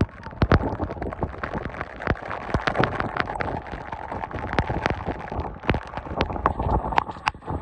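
Rain falling hard, with many irregular sharp hits of drops striking close by over a steady wash of noise.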